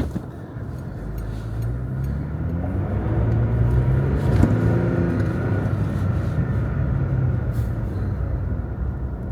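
Pickup truck running on the road, engine and road noise heard from inside the cab; the engine's pitch climbs for a couple of seconds, then holds and eases off.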